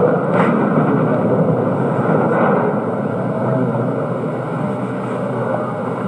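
Steady rushing background noise with no voice, sitting in the low and middle range with little treble. A faint short sound comes about half a second in.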